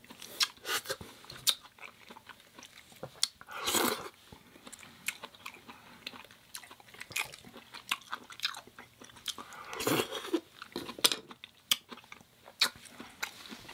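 A person chewing and biting food close to the microphone: irregular crunches and wet mouth clicks, with two longer, louder noisy sounds about four and ten seconds in.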